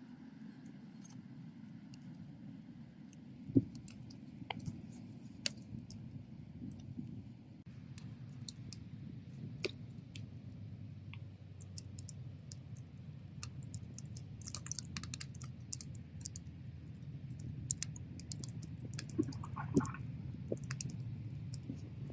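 Bonfire burning: a steady low rumble of flames with scattered crackles and pops from the burning wood, one sharp pop about three and a half seconds in and a quick run of crackles around the middle.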